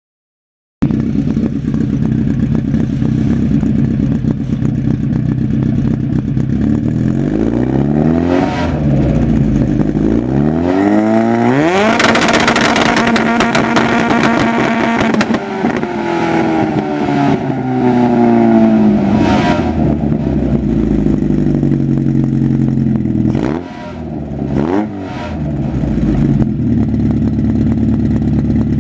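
Vauxhall C20XE 2.0 16-valve four-cylinder on Yamaha R1 motorcycle carburettors, idling and then revved. Its revs rise sharply to a held peak for about three seconds, stuttering against the Megajolt ignition's hard rev limiter, then fall away. Two quick blips come near the end before it settles back to idle.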